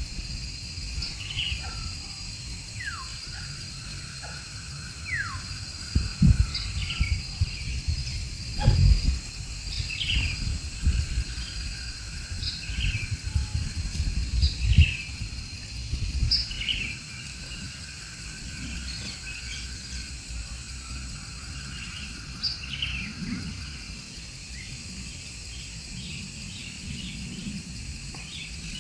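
Birds chirping in short, repeated calls over a steady high-pitched insect drone, with a low rumble and several dull thumps in the first half.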